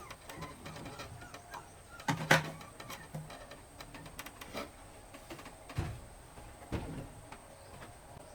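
Irregular knocks and clatters from objects being handled, the loudest cluster about two seconds in and a few single knocks after.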